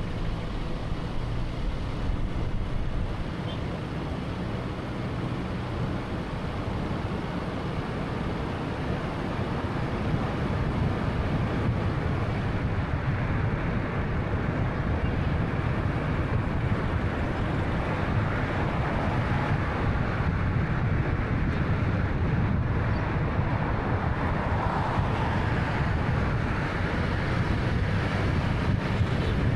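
Steady road noise of a moving 2013 Honda Fit hatchback with a 1.3-litre engine: tyre rumble and engine hum with some wind noise, growing slightly louder about ten seconds in.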